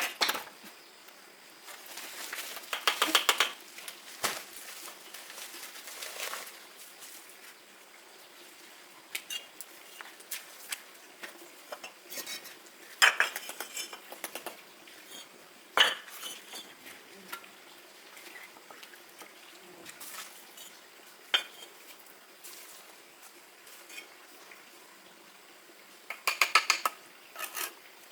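Pots, dishes and metal utensils clinking and clattering, in scattered bursts of quick rattling with single clinks between.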